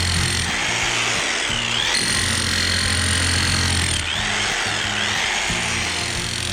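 Background music over the steady running of an electric demolition hammer (Bosch GSH5X) digging into soil.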